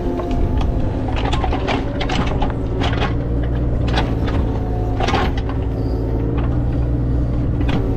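A motor vehicle's engine running steadily, with frequent short rattles and knocks over it.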